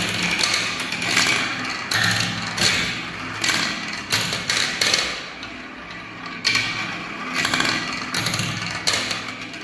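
Marbles rolling down a marble-run track: a continuous rolling rattle with many sharp clicks and clacks as the balls knock against the track and each other.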